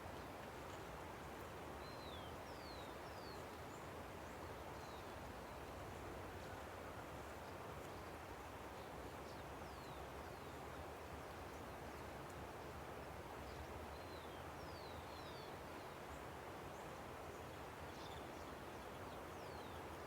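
A river's steady rush, with birds calling over it in short falling chirps that come in a few scattered bursts.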